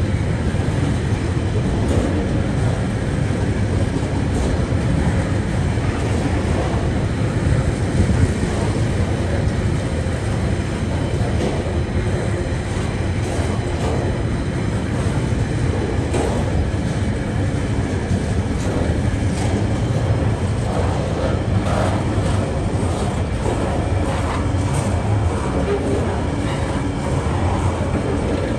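TasRail freight train rolling past: a steady low rumble with scattered clicks and knocks from the wheels.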